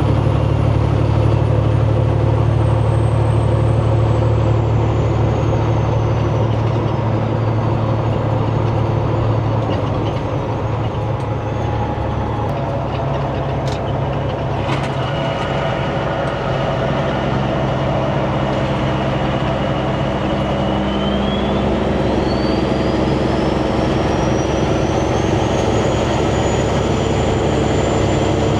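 Semi-truck cab on the move: steady engine drone and road noise, with a faint high whine that slowly falls in pitch, holds, then rises again. A couple of sharp clicks about halfway through.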